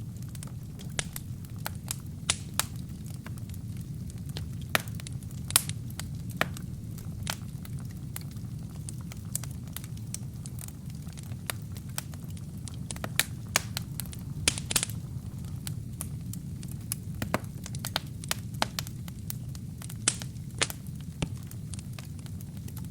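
Wood fire burning in a fireplace: a steady low rumble of the flames with irregular sharp crackles and pops from the burning logs, a few louder snaps scattered through.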